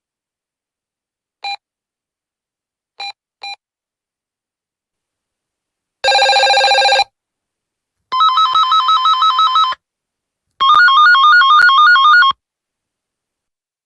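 Walkie-talkie electronic tones: a short beep, then two beeps about half a second apart, then a buzzy one-second tone. Two ringtone-like warbling tones follow, each about a second and a half long and trilling rapidly between two pitches.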